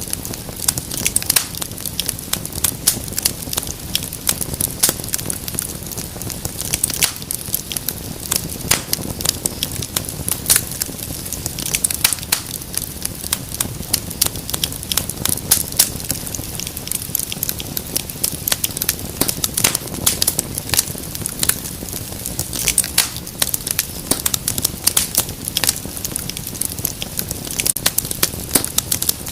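Wood fire crackling in a fireplace: a steady stream of irregular sharp snaps and pops over a low, even rush of flame.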